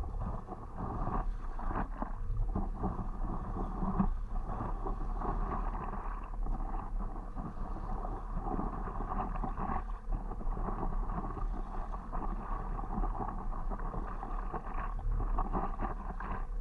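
Water splashing and lapping around a stand-up paddleboard as the paddle dips and pulls, with a steady low rumble of wind on the microphone.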